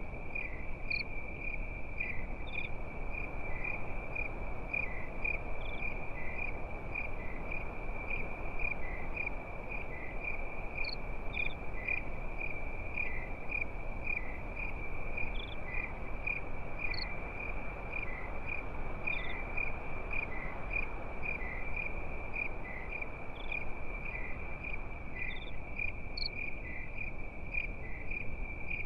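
Crickets chirping at night in a steady, high, pulsing chorus, about two pulses a second, with now and then a higher single chirp from another insect. Underneath runs a soft, even background hiss.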